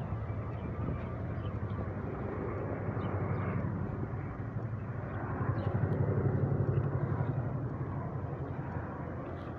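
Chinook tandem-rotor helicopter flying over, its rotors beating in a rapid low pulse that swells a little about six seconds in.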